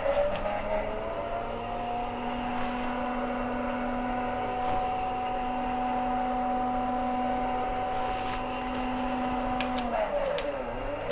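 Small electric motor of a push-button model diorama whining up to speed, running at a steady pitch, then winding down about ten seconds in. The motor turns but nothing on the model moves; it was probably the drive for quarry wagons that are no longer there.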